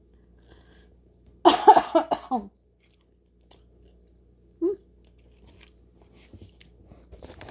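A person biting into and chewing a fried hush puppy, with a loud throat sound about a second and a half in and a brief shorter one near five seconds.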